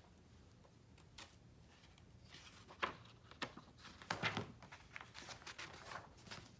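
Soft paper rustling and light taps as the pages of a picture book are handled and turned, starting about two seconds in after a quiet stretch.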